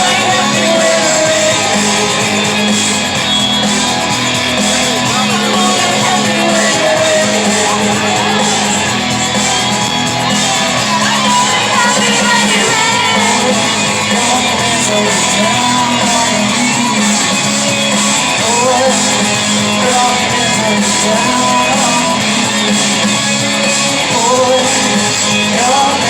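Live alternative rock band playing loudly and steadily, with electric guitars and a singing voice over the top.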